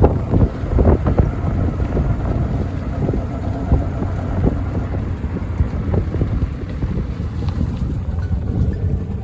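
Wind buffeting the microphone over the low rumble of a moving auto-rickshaw, with scattered knocks and jolts.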